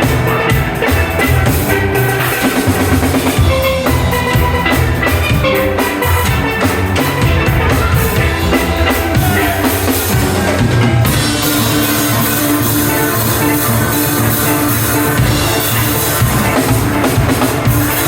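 Steel band playing: steel pans carrying quick pitched notes over a drum kit's steady beat, the sound getting brighter and busier about two-thirds of the way through.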